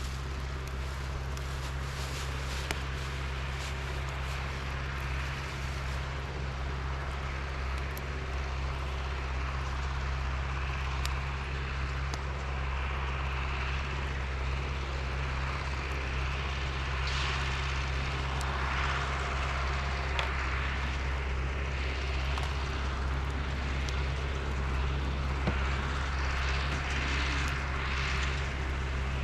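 A large engine running steadily at an even speed: a deep, constant hum with a rushing hiss over it.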